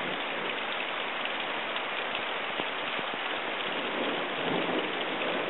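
Steady rain of a summer thunderstorm, with a slight swell in level about four seconds in.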